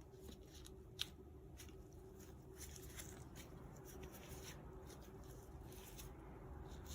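Faint scraping and rustling handling noises, with one sharp click about a second in, over a low steady hum.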